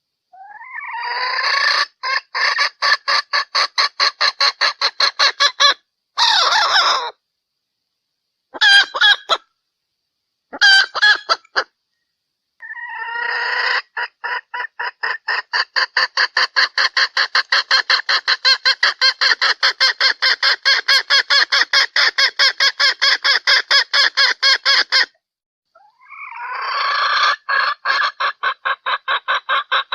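Junglefowl hen calling: runs of rapid clucks, about five a second, each run opening with a short rising note, broken by a few short bursts and pauses. This is the hen call used as a lure to draw junglefowl in.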